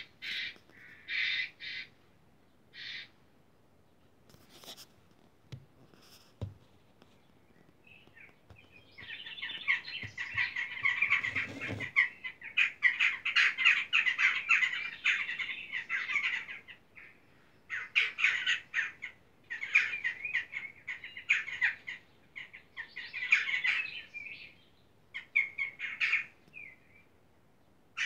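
Bird calls: a few short chirps, then from about nine seconds in several long bouts of rapid, harsh chattering with short pauses between them.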